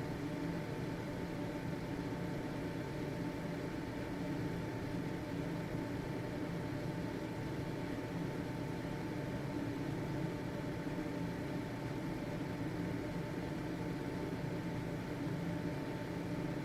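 Household exhaust fan running steadily: an even airy whoosh with a low motor hum and a faint steady whine.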